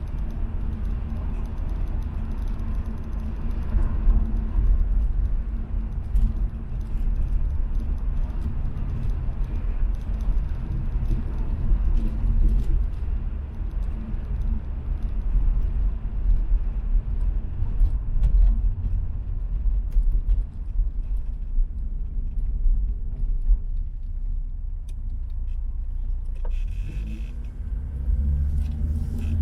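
Peugeot 505 GTD's four-cylinder turbodiesel driving along with a steady low rumble, with small clicks and rattles on top. The higher sounds die down for a few seconds and then pick up again near the end.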